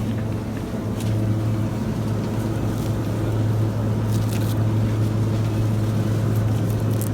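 Steady low electrical-mechanical hum of a supermarket, such as refrigerated display cases and ventilation, with a few faint clicks and rustles.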